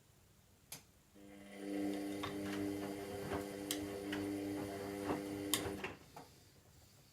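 Washing machine turning its drum during the wash phase: a click, then the drum motor hums at a steady pitch for about five seconds with scattered knocks and clicks, and stops.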